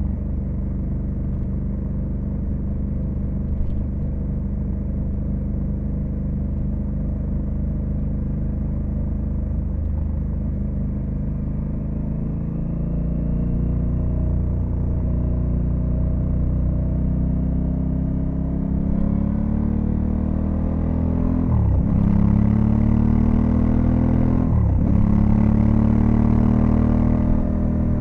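Honda Africa Twin CRF1100L's parallel-twin engine pulling at a steady speed, then accelerating from about halfway through with the pitch climbing. Two upshifts come near the end, each a quick drop in engine pitch followed by a fresh climb, as wind noise grows.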